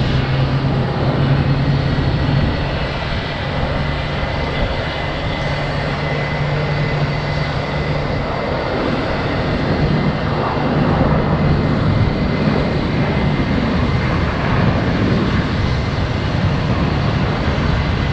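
Jet airliner engines running: a loud, continuous rush of jet noise with a steady low hum and a faint high whine.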